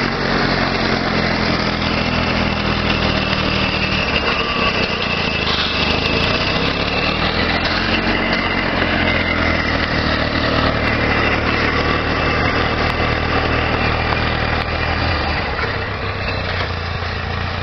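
Homemade tractor's engine, taken from an SK-12, running steadily, with its pitch shifting slightly about four seconds in and again around the middle.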